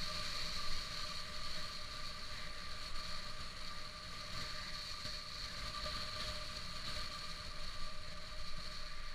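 Honda CBR600RR sport bike riding at a steady speed: an even engine note held at constant revs under a rush of wind noise.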